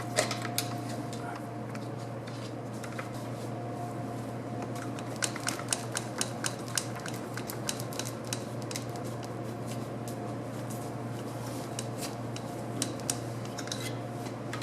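Hand tools clicking and tapping on the metal parts of a 700R4 automatic transmission while a button is worked loose to free the band. The clicks are light and irregular, thickest about five to seven seconds in, over a steady hum.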